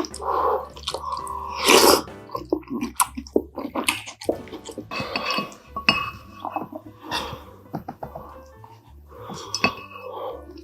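A person eating: chewing, with scattered clinks of utensils against dishes, over background music.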